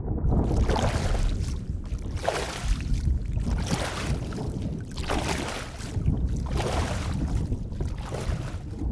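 Underwater ambience: a steady low rumble of moving water with swells of rushing, bubbling water coming and going about once a second.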